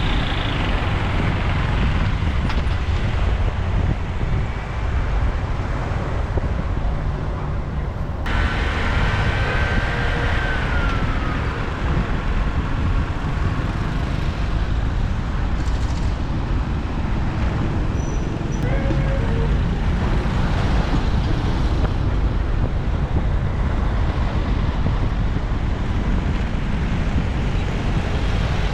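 Steady road and traffic noise heard from a moving motorbike in city streets: a continuous low rumble, with a faint tone that glides slightly down about nine seconds in and brief faint tones near the twenty-second mark.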